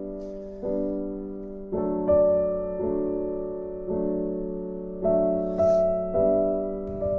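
Background music: a slow, gentle piano piece, chords struck about once a second and left to ring and fade.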